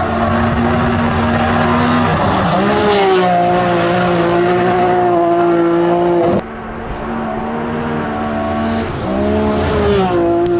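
Rally car engines running at high revs, the pitch climbing and then holding steady. About six and a half seconds in the sound changes abruptly to another engine note that also rises and holds.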